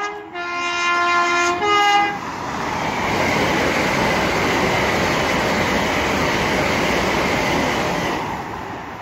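An express passenger train sounds its two-tone horn for about two seconds, changing note twice. The rush of the train passing at speed follows and fades near the end.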